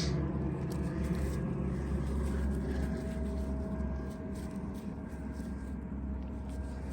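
Low, steady rumble of a motor vehicle's engine, slowly fading.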